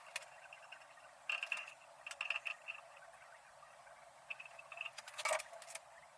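Small metal parts and tools clinking and tapping: a few short knocks, some with a brief ring, the sharpest near the end.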